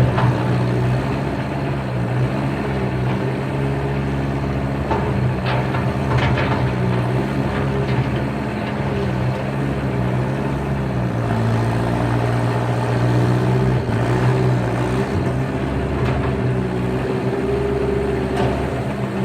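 Skid steer's diesel engine running steadily, its pitch shifting a little as the load changes, with a few short clanks about five to six seconds in.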